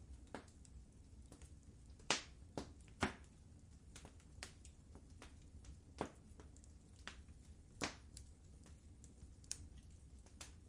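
Fire in a fireplace crackling: irregular sharp pops and snaps, the loudest about two and three seconds in, over a low steady rumble.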